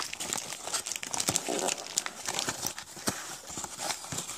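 Plastic packaging crinkling and rustling as small items are handled, with many short light clicks and taps.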